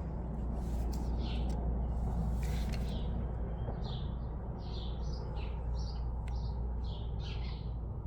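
Baby bird chirping: short high peeps repeated about once or twice a second, starting a few seconds in, over a steady low rumble.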